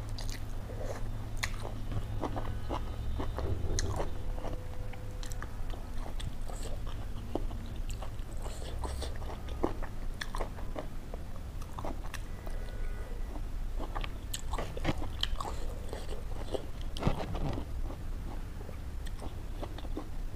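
Close-up eating sounds: a person biting and chewing food, with many short sharp crunches and wet mouth clicks, over a steady low hum.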